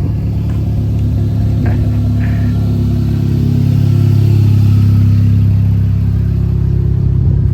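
A car engine running steadily, swelling slightly louder about halfway through and easing off again near the end.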